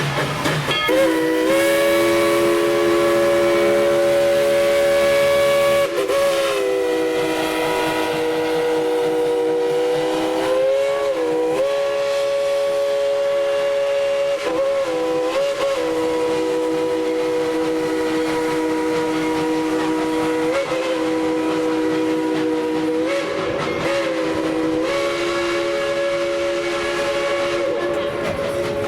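Steam locomotive No. 190's chime whistle sounding a long multi-note chord, held almost without a break after about a second. The chord sags and swells in pitch several times as the whistle valve is worked.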